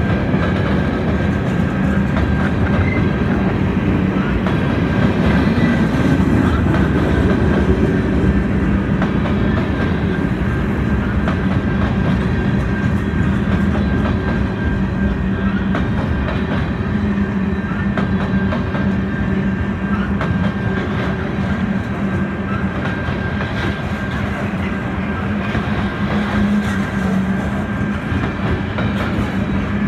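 Loaded freight gondola cars rolling past close by, wheels clicking over the rail joints with a steady hum and a thin steady ringing tone above it.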